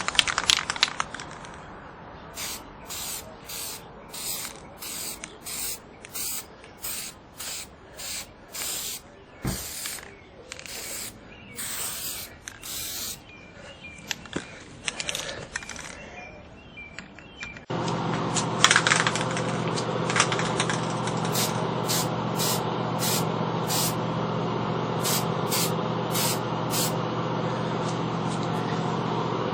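Aerosol can of appliance epoxy spray paint being sprayed in a long series of short bursts. About halfway through, a louder steady hum starts underneath and continues while the spraying goes on.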